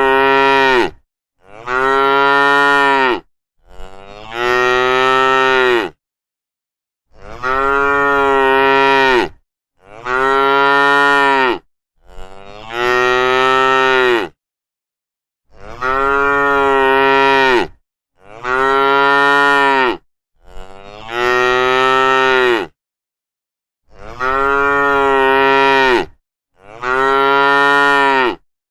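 Cattle mooing: about eleven long moos in a row, each lasting about two seconds and dipping in pitch at its end, with short silent gaps between them.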